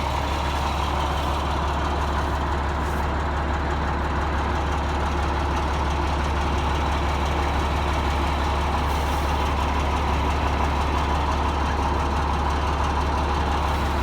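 Ford L8000 grain truck's Ford diesel engine idling steadily.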